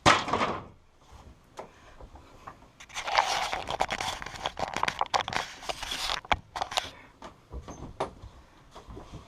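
Rustling and scraping handling noise with many sharp clicks and knocks, densest from about three to six seconds in, after a short loud knock at the start.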